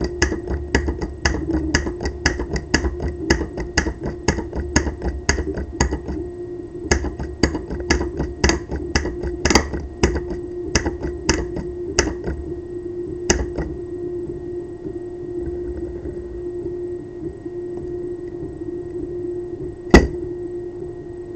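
A solenoid in a 3D-printed pulse-propulsion device clicking about three or four times a second, with a low rumble beneath. The clicks become irregular after about six seconds and stop a little past halfway, leaving a steady hum. One sharp click sounds near the end.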